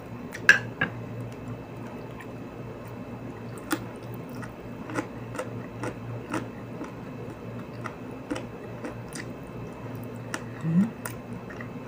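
A person chewing and eating close to the microphone: scattered small wet mouth clicks and smacks, with one sharp click about half a second in, over a steady low hum. A short rising low sound near the end.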